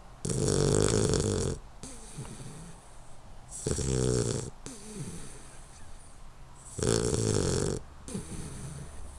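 A 12-week-old Hungarian Vizsla puppy snoring in its sleep: three loud snores about three seconds apart, each lasting about a second, with softer breaths between them.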